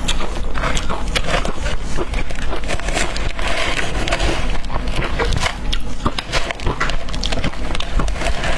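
Close-miked crunching of ice being bitten and chewed: a dense, continuous run of sharp cracks and crackles.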